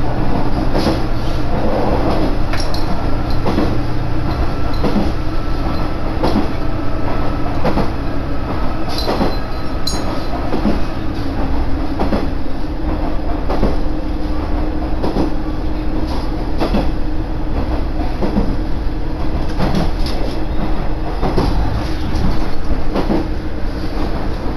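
Koumi Line railcar running along the track, heard from on board: a steady low rumble with knocks from the wheels over rail joints every second or two, and a faint thin whine for several seconds in the first half.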